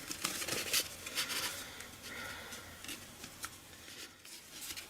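Paper and ribbon being handled: a series of short, irregular rustles and soft scrapes as cardstock and a ribbon are moved and tucked by hand.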